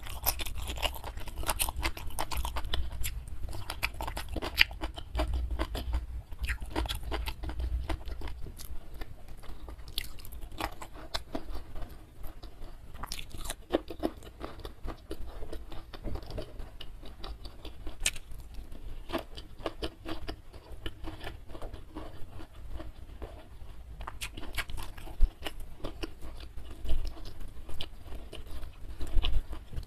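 Close-miked chewing and crunching of someone eating fried pangasius catfish (ikan patin) with sambal, made up of many short, irregular mouth clicks.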